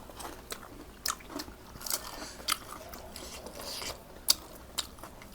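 Close-up eating sounds: someone bites into and chews crisp fried phaley, with a scatter of sharp crunches and wet mouth clicks.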